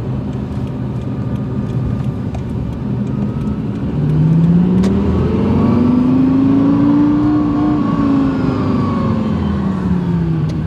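Lexus LFA's 4.8-litre V10 heard from inside the cabin on a drive, running steadily at first. About four seconds in it gets louder and its pitch climbs smoothly as the revs rise, peaking a few seconds later, then falls away as the driver eases off.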